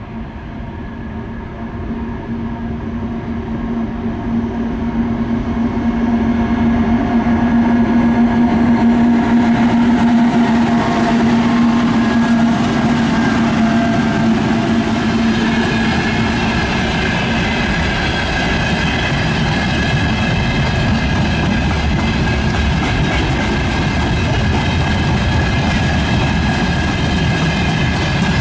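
2TE116 twin-section diesel freight locomotive, its 16-cylinder diesel engines making a steady drone that grows louder over the first several seconds as it approaches. From about halfway on, the freight wagons roll past with a steady rumble and high ringing wheel-on-rail tones.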